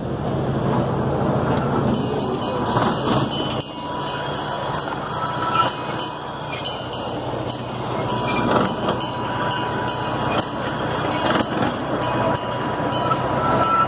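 Small open-car tourist train running along its track: a steady rumble of the cars rolling on the rails, with a faint steady whine above it.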